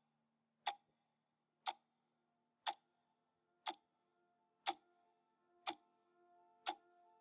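Sharp, regular ticks, one a second and seven in all, like a clock ticking, over faint held music notes.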